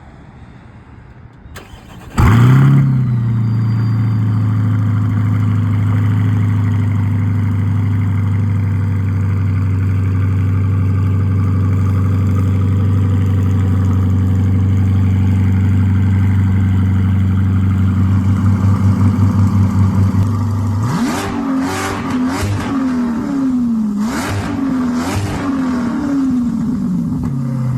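ProCharger-supercharged 2020 C8 Corvette 6.2 L LT2 V8 with a center-exit track exhaust, cold-started: it fires up about two seconds in with a brief flare, then holds a steady fast cold idle. Near the end it is revved up and down several times.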